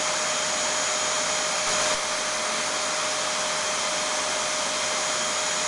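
Vacuum cleaner running steadily: an even rush of air with a constant hum and a high whine, unchanging.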